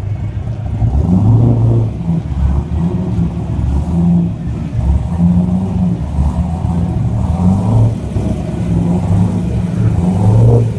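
Loud, low car engine noise that swells and eases off about four times, as engines are revved.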